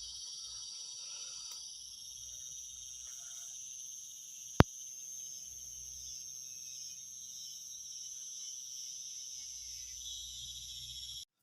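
Steady high-pitched chorus of night insects, crickets or similar, that cuts off abruptly near the end. A single sharp click, the loudest sound, comes a little under halfway through.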